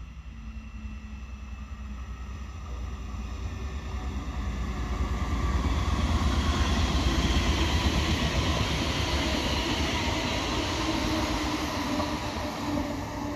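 Red electric multiple-unit regional express train approaching and passing close by on electrified track: a rumble and rush of wheels on rails that builds about halfway through, then eases a little, with a steady tone coming through near the end.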